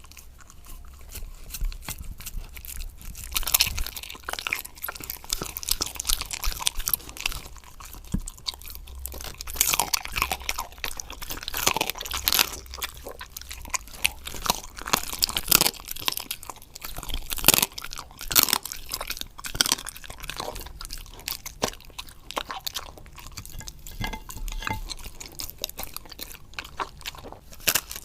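Border collie chewing raw food, with irregular sharp crunches as it bites through the meat and chews.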